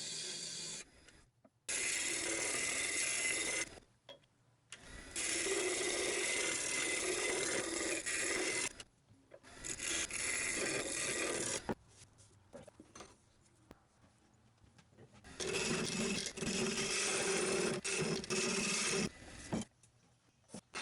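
A turning tool cutting wood spinning on a wood lathe, in four stretches of two to four seconds each that start and stop abruptly, with quieter gaps between them.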